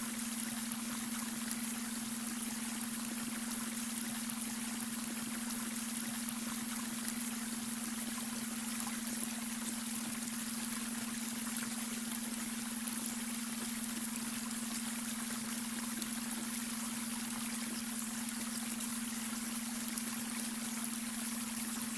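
Babbling brook with water running and trickling steadily, over a steady low hum: the beta-wave brainwave tone mixed in.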